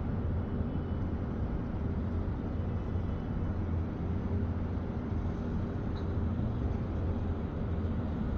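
Steady rumble of slow-moving road traffic on a snowy street, with a constant low hum.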